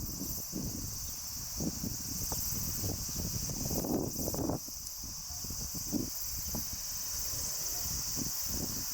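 A steady chorus of insects shrilling, with soft, irregular gulps of beer being drunk underneath.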